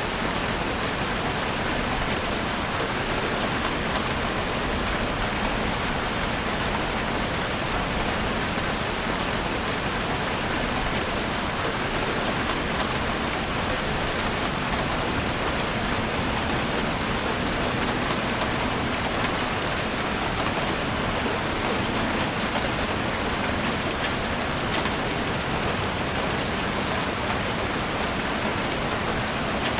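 Heavy rain drumming steadily on a chalet roof, a dense even hiss dotted with the small ticks of single drops.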